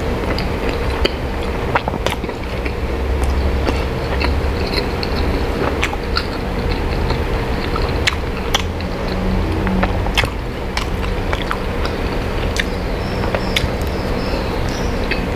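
A person chewing a soft-bun chicken burger, with scattered small wet mouth clicks, then biting into it again near the end. A steady low hum runs underneath.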